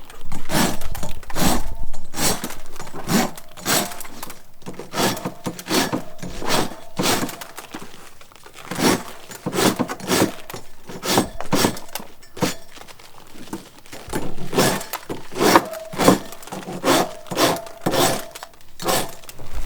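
Hard objects repeatedly knocking and clinking against each other at an uneven pace of one or two a second. Some strikes leave a faint ringing tone.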